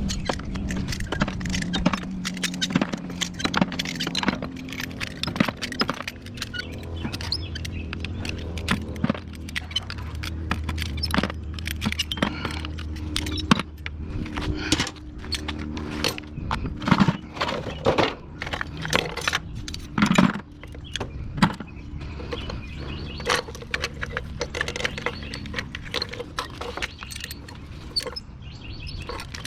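Metal scrap parts from a dismantled window air conditioner clinking and clattering as they are handled and set down, many separate knocks throughout, over a steady low hum.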